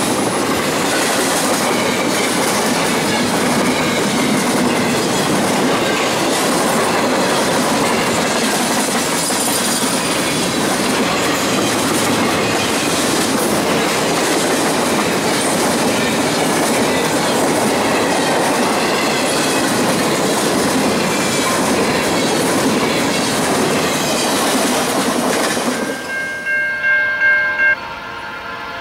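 Empty intermodal well cars of a freight train rolling past close by: a steady loud rattle and rumble of steel wheels on the rails, with clickety-clack over the rail joints. Near the end the train noise cuts off and a locomotive horn sounds in a few short high blasts.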